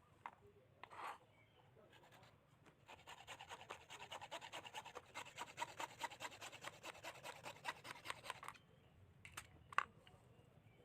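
Fast, rhythmic scraping strokes on a small workpiece, several a second for about six seconds, then two light clicks near the end.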